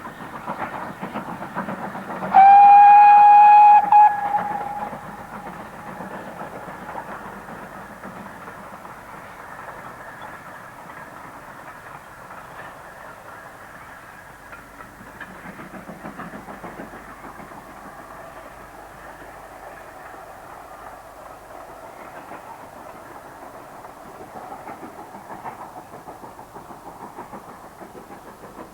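Great Western Manor-class 4-6-0 steam locomotive sounding its whistle once for about a second and a half near the start, then working hard up a steep gradient with a steady rhythmic exhaust beat.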